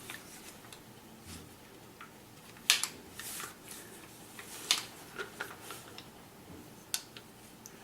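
Airsoft carbine being handled: a few sharp plastic-and-metal clicks, the loudest about three seconds in, with lighter ticks and rustling between.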